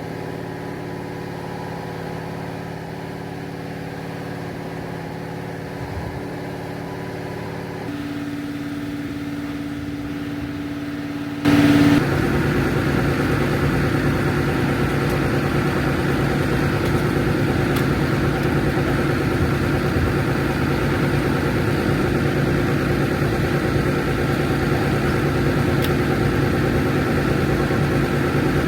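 Concrete mixer truck's diesel engine running steadily. A little over a third of the way in it suddenly gets louder and rougher and stays that way.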